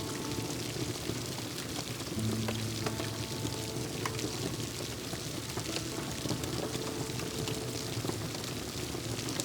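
Steady rain with scattered sharp crackles and pops from a wood fire, under soft background music of slow held notes.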